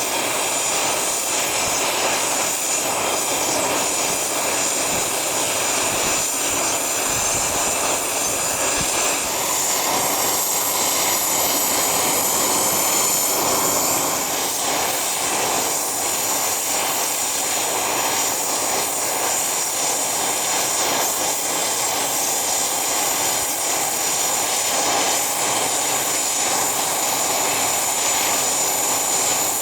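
Private jet's engines running steadily, with a thin high whine over a steady rush of noise.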